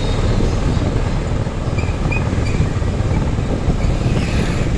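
Steady wind rush and road noise on a riding motorcycle's microphone, with the Suzuki Gixer SF's engine running underneath.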